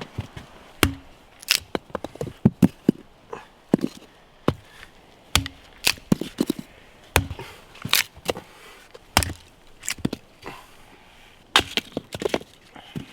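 Irregular run of sharp wooden knocks and cracks, roughly one or two a second, some coming in quick pairs: wood being struck or chopped.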